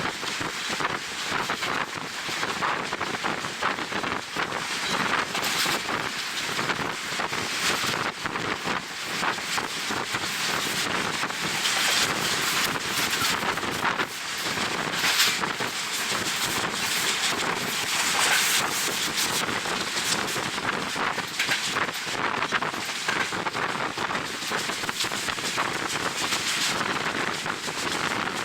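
Wind buffeting the microphone at the open window of a moving passenger train, a steady rushing noise with constant small gusts, over the running noise of the train.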